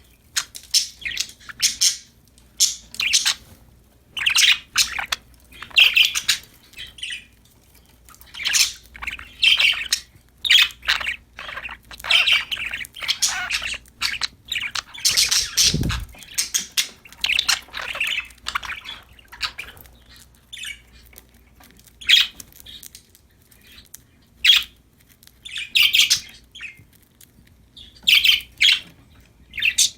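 Budgies (budgerigars) chirping and squawking in quick, irregular bouts with short pauses between, with one brief low thump about halfway through.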